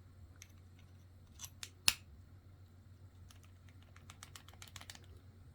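Faint small clicks from handling a pistol-grip screwdriver and its bit: a few single clicks, the loudest about two seconds in, then a quick run of light ticks over the last two seconds.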